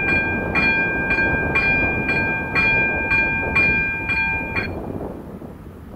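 Level-crossing warning bell ringing about twice a second, then stopping about four and a half seconds in as the crossing clears. Under it a passing train rumbles and fades away.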